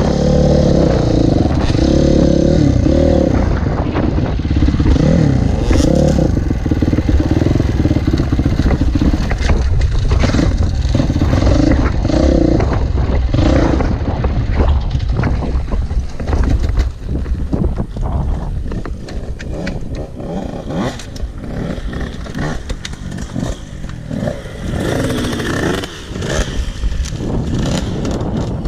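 Motocross bike engine revving up and down repeatedly as the bike is ridden. In the second half the engine sound drops back and is mixed with many sharp clattering knocks.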